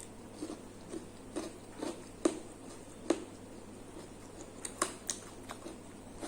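A person chewing food close to the microphone, with a string of short wet mouth smacks and clicks about twice a second, two of them louder a little past two and three seconds in.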